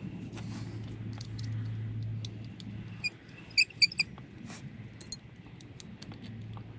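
Small metal tool clicks and clinks, with a quick cluster of bright ringing clinks about three and a half seconds in, as a small Allen wrench is worked against a brake caliper to push out a brake pad retaining pin. A low steady hum runs underneath.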